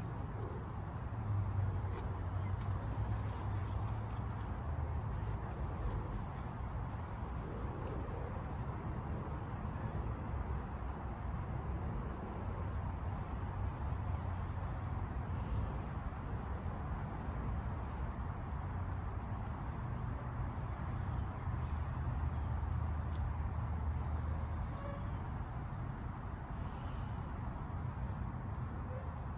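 Insects trilling in one steady, unbroken high-pitched tone, over a low rumble.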